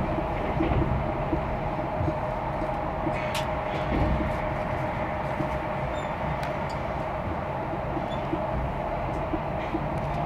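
Passenger train running at speed, heard from inside the carriage: a steady rumble and hiss of the wheels on the rails under a steady hum, with a few light clicks.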